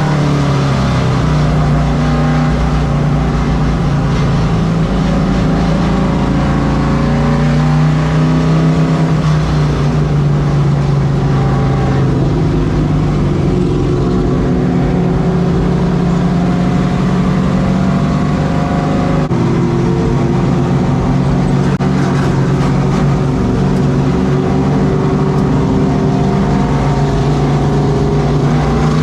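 Race truck engine running hard around a short oval. Its pitch holds mostly steady, easing off and picking back up around the start and again near the end.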